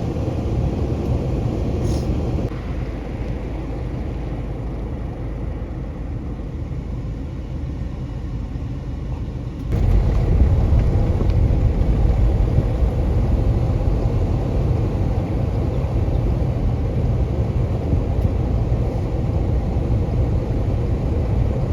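A moving car's engine and road noise: a steady low rumble. It gets suddenly louder about ten seconds in and stays level after that.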